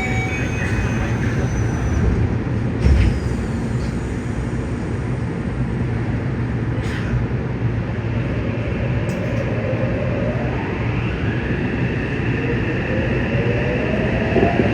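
Yokohama Blue Line 3000N subway train running, with a thump about three seconds in. From about ten seconds in, the whine of its Mitsubishi IGBT-VVVF inverter and traction motors rises in pitch as the train accelerates.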